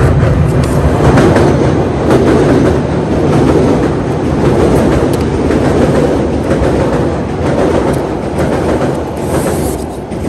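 Chicago transit train passing close by, a loud steady rumble with its wheels clattering on the rails, easing off near the end.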